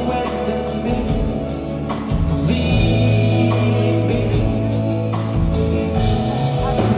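Live band playing a slow soft-rock ballad, with long held chords over a steady bass line.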